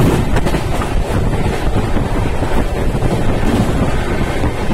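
Train running at speed, heard from inside a coach by the window: a loud, steady rumble of wheels on rails with wind buffeting the microphone, and a few sharp clacks just after the start.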